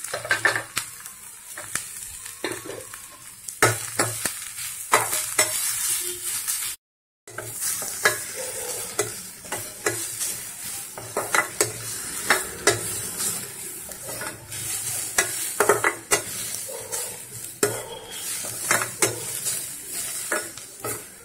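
Grated carrot frying in ghee in a stainless-steel pan: a steady sizzle, with a spatula scraping and knocking against the pan as the carrot is stirred, every second or so, with one brief cut-out about seven seconds in.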